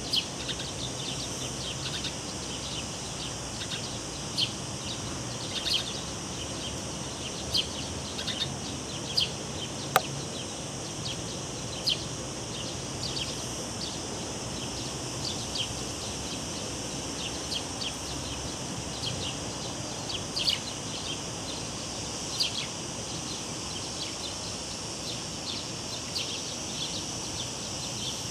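Cicadas buzzing in a steady high drone, with many short bird chirps scattered over it and one sharp click about ten seconds in, all above a low, even rush of background noise.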